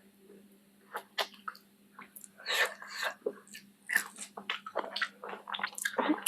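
Close-up eating sounds: wet chewing, biting and smacking, with irregular sharp clicks, as chicken feet curry with rice is eaten.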